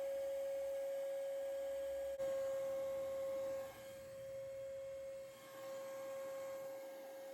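A single steady tone at one fixed pitch, held without a break, dipping slightly in loudness a couple of times.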